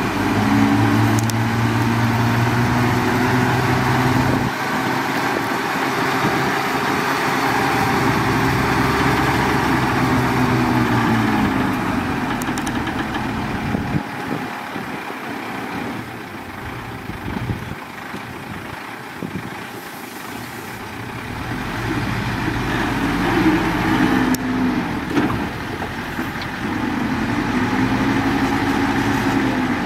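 Heavy diesel engine working under load, its pitch held high, then dropping away, then rising again before falling near the end. A few sharp knocks come through between.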